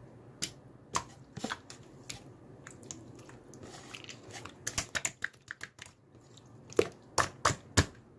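Irregular small clicks and handling noises: a scattered few at first, a quick run of clicks about halfway through, then four louder clicks near the end.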